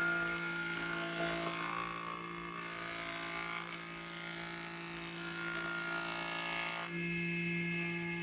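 A small electric power tool running steadily and stopping suddenly about seven seconds in, over a steady low drone.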